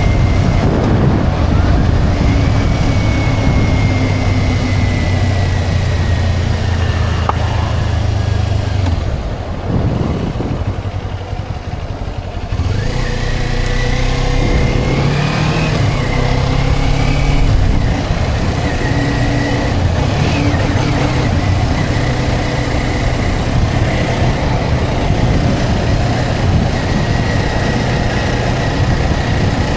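Motorcycle engine running under way with road and wind noise. It drops back about nine seconds in and picks up again about three seconds later.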